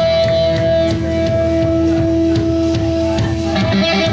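Live pop-punk band playing through amplifiers: electric guitars hold long notes over drum hits, then a picked guitar line starts near the end.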